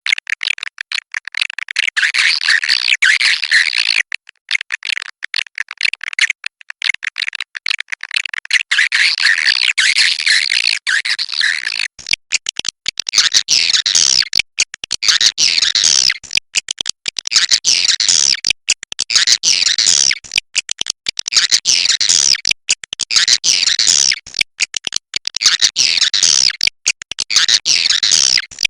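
Swiftlet calls: dense, rapid twittering chatter of many birds, chopped by frequent abrupt short gaps. It is a swiftlet lure recording, a "suara inap" roosting call of the kind played to draw swiftlets to roost and nest. The chatter grows denser about twelve seconds in.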